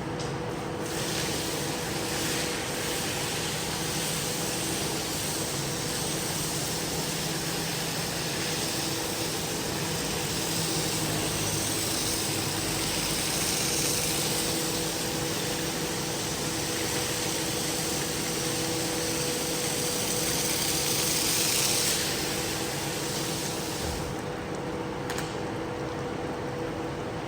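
Cleaning machine motor running steadily with a hum, under a strong hiss that fades away a few seconds before the end.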